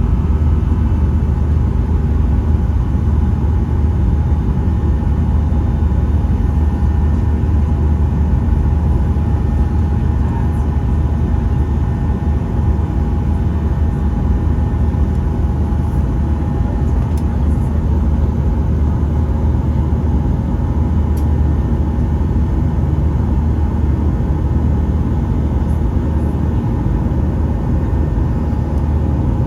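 Steady cabin drone of a Boeing 737-800 with its CFM56 engines running: a loud, even low rumble with a few faint constant hums above it, not changing over the whole stretch.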